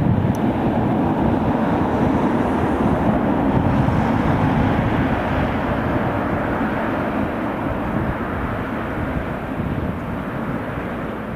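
A train passing, a steady, even noise that slowly grows quieter toward the end.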